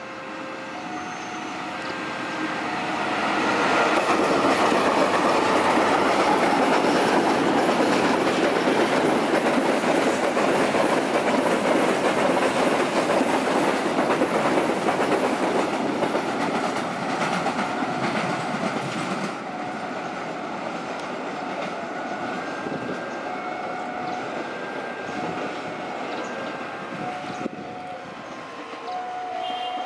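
Freight train of fuel tank wagons behind diesel locomotives passing close: the locomotive engines swell as the train approaches, then the wagon wheels clatter over the rail joints as the tanks roll by, easing off after about sixteen seconds. An electronic railway warning alarm sounds in a repeating on-off pattern at the start and again through the second half.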